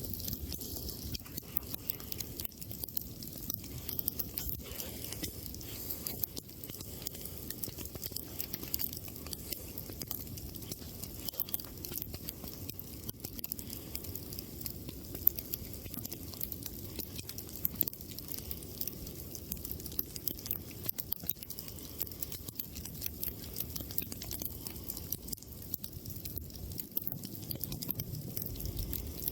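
Wood campfire crackling with frequent small, irregular pops over a steady low noise, and one sharper pop about halfway through.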